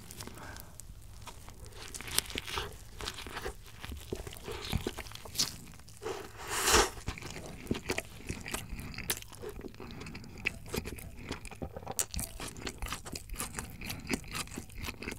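Close-miked chewing of a mouthful of burger: soft, irregular crunching and wet mouth sounds.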